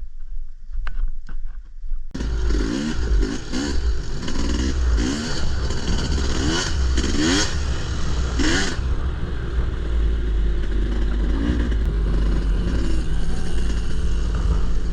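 Wind buffeting the microphone for about two seconds, then a dirt bike engine revving up and down over and over as the bike rides the trail, settling into a steadier run after about nine seconds.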